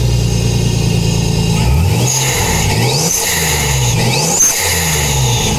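Toyota Supra's twin-turbo 2JZ-GTE straight-six idling steadily, then blipped about four times, roughly once a second, from about a third of the way in. Each rev rises and falls with a high turbo whistle climbing with it.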